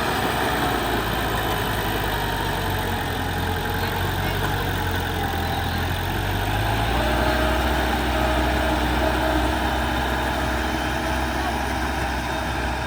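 Heavy diesel engine of earthmoving machinery running steadily at low revs. Its note shifts slightly about seven seconds in.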